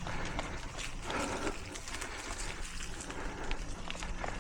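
Mountain bike riding over rocky singletrack: the tyres knock and crunch on rock, with scattered clicks and rattles from the bike, over a steady low rumble of wind on the microphone.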